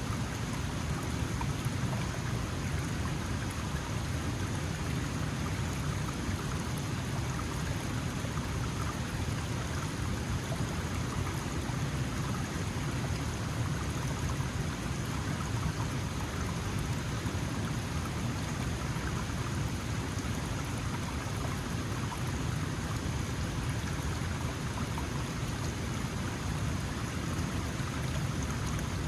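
Small mountain stream flowing: a steady, even rush of water without breaks.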